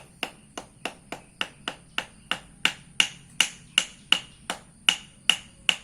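Sharp, steady tapping on a mold with a small hand tool, about three taps a second, to knock a stuck molded landing-gear part loose from the mold.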